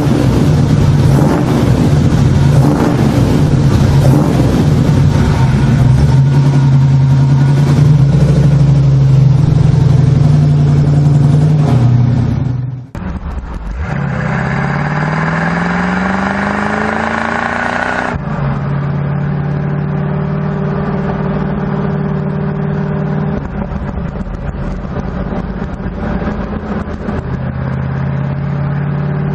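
Muscle car engines running loud in edited segments. First a steady engine note; then, after an abrupt cut about 13 seconds in, an engine revving up with a rising pitch for about five seconds; then another engine running steadily.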